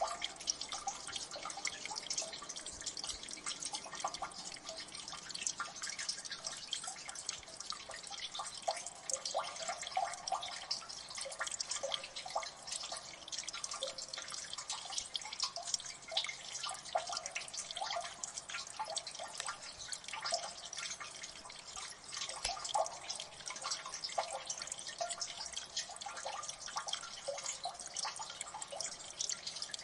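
Water dripping in a gully: many quick, irregular drips plinking over a steady watery hiss.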